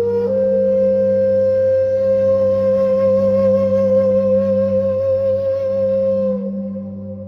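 Meditation music: a flute holds one long note with gentle vibrato over a steady low drone. Near the end the note dips slightly and fades.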